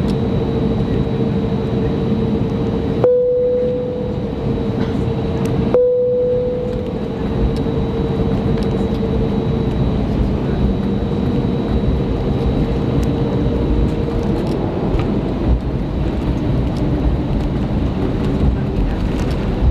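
Airbus A321neo cabin noise: a steady rumble with a steady hum, broken by two abrupt cuts a few seconds in.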